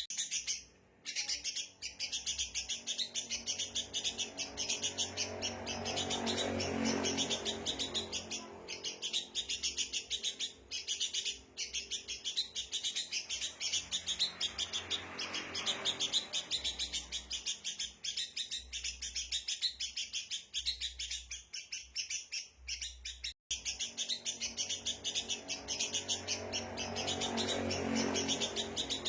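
Sooty-headed bulbuls (kutilang) chattering in fast, dense, agitated chirps, the noisy 'ricuh' calls used as a lure to bring wild birds in. A lower rushing sound swells and fades three times beneath the chirps.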